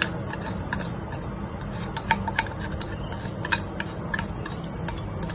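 Irregular light clicks and scrapes of utensils and hands on a plate as marinade is applied over raw chicken pieces, over a steady low hum.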